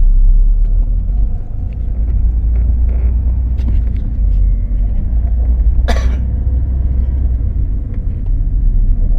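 Steady low rumble of a car on the move, with one short, sharp noise about six seconds in.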